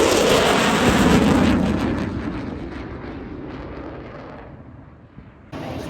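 Loud jet engine noise from a fighter jet passing, fading steadily as it flies away. It cuts off abruptly near the end.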